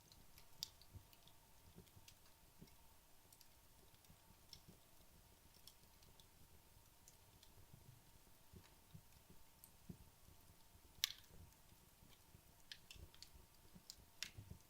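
Wood fire in a fireplace, late in its burn-down, giving off sparse faint crackles and ticks, with one sharper pop about eleven seconds in.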